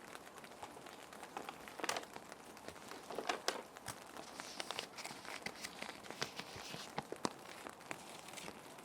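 Plastic sheet protectors crinkling and rustling irregularly as paper sheets are handled and slid into them, over a steady background of gentle rain.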